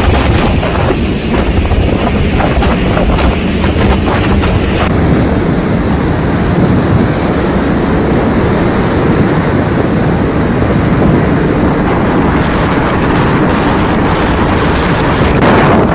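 Strong storm wind buffeting the microphone, loud and continuous, with no pauses; its tone shifts about five seconds in.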